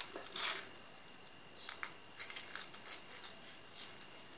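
Small dry bits of homemade bird food being tossed and scattered by hand: a run of light, irregular ticks and rustles.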